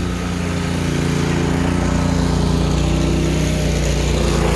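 Engine of a snow-clearing machine running steadily at a constant pitch close by, as it clears the street or sidewalk of snow.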